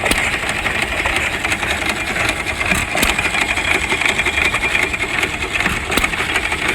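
Engine running steadily at idle.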